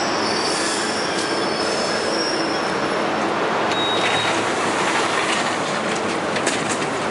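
Steady rushing noise of an electric train at a station platform, with brief high-pitched whistling tones in the first half and a few short clicks near the end.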